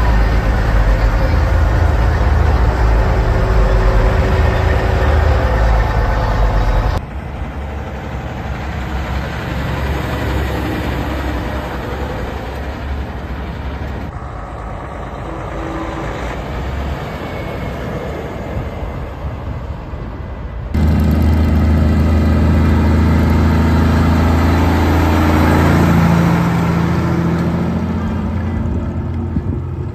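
Heavy truck engines running in a series of separate clips that change abruptly about seven, fourteen and twenty-one seconds in. The deepest and loudest engine sound comes at the start and again from about twenty-one seconds on.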